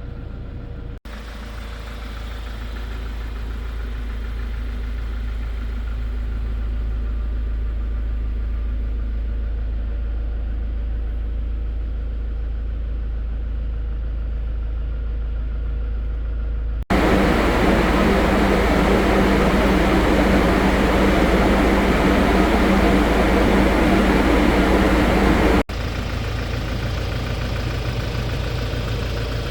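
Hyundai Porter II truck's four-cylinder diesel engine idling steadily, heard in separate clips joined by abrupt cuts. The middle stretch, from about 17 to 26 seconds in, is louder and harsher.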